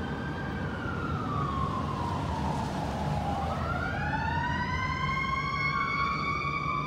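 Fire engine siren wailing: a slow fall in pitch, then a long rise, with a second siren tone overlapping in the latter half. A low, steady engine rumble runs underneath.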